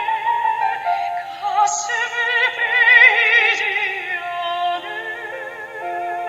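Soprano singing in a classical style with a wide vibrato over sustained instrumental chords; about four and a half seconds in the voice drops away, leaving the held accompaniment.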